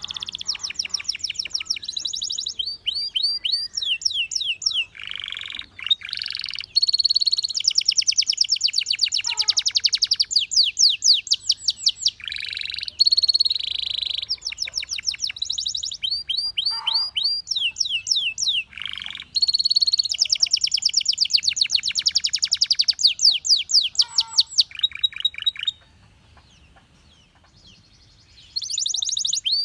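Canary singing a long song of fast trills, each phrase a rapid run of repeated notes at its own speed and pitch, switching from phrase to phrase. The song breaks off for about three seconds near the end, then starts again.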